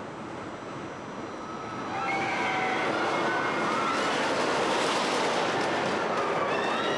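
A roller coaster train running, its rushing noise growing louder about two seconds in, with high wavering screams over it.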